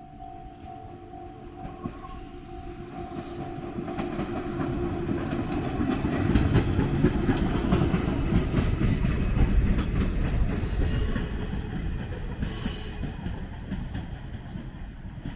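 Jōshin Line electric train running on the rails, its rumble and wheel clatter swelling to a peak about halfway through and then easing off, with a brief high squeal near the end.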